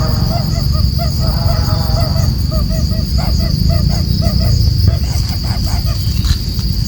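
Coucal (burung bubut) calling: a run of short hooting notes, about two to three a second, that ends about five seconds in. A steady high cricket trill and a low rumble run underneath.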